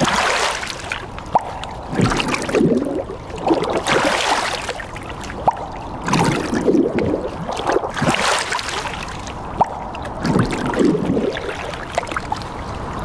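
Water sloshing and splashing in a repeating rhythm, one swell about every two seconds, with small clicks and drips in between.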